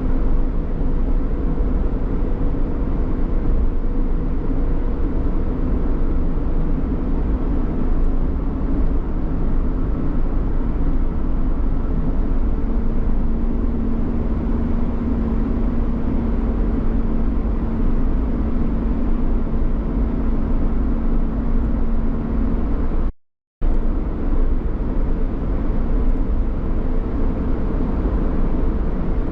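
Steady road and engine noise from a vehicle being driven, with a low hum underneath. The sound cuts out completely for about half a second around 23 seconds in.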